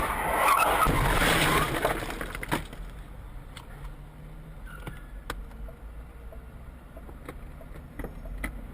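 Car collision heard through a dashcam: a loud, noisy crash lasting about two and a half seconds at the start, then a low rumble with scattered sharp clicks.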